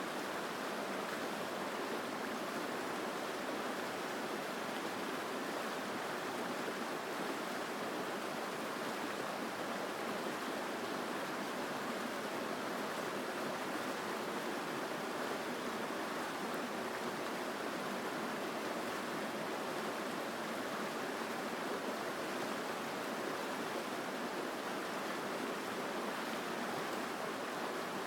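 Mountain stream rushing steadily over rocks, a full, even sound of flowing water with no breaks or changes.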